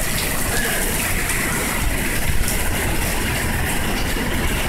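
City bus engine running with a low, steady rumble as the bus pulls up, under a constant hiss of pouring rain.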